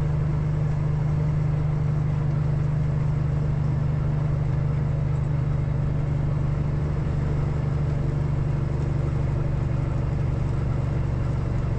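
Peterbilt semi truck's diesel engine running steadily at highway cruising speed, a constant low drone heard from inside the cab.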